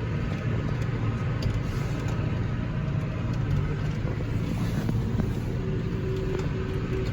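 Tractor engine running steadily at a constant speed, without revving. A faint steady higher tone joins it about five and a half seconds in.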